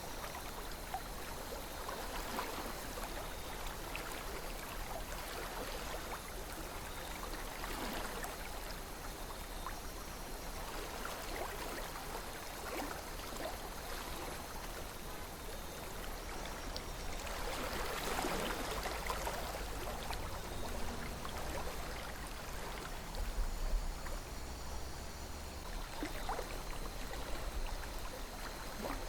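A calm river flowing in a steady rush, with gentle splashing and gurgling that swells now and then, most around the middle of the stretch.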